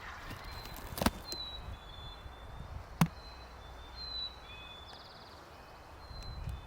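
Small songbirds chirping with short high notes and a brief trill, over quiet outdoor background. Two sharp clicks or snaps stand out, about a second in and about three seconds in, the loudest sounds.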